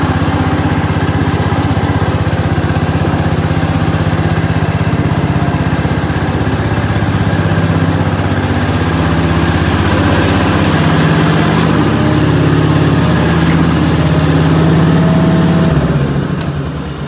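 Gravely 812 walk-behind tractor's engine running steadily, its speed shifting up and down partway through, then shut off and winding down near the end.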